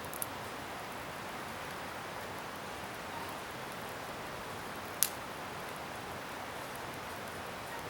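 Scrap-wood bonfire burning with a steady hiss, and one sharp crackling pop from the wood about five seconds in.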